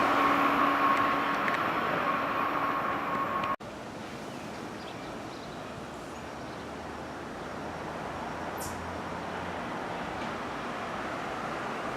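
A passing train fading away, its rumble carrying a steady whine, cut off abruptly about three and a half seconds in. Then quieter station ambience, with a low rumble slowly building from an approaching train.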